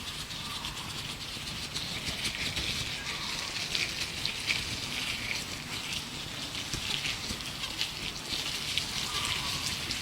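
Gloved hands rubbing and crinkling close to the microphone, a dense run of small crackles and scratches, with faint bird chirps in the background.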